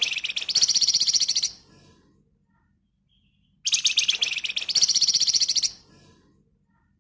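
Flamboyan songbird giving fast, tightly packed rattling trills (the 'ngebren rapat' song): two bursts of about two seconds each, each stepping up in pitch partway through.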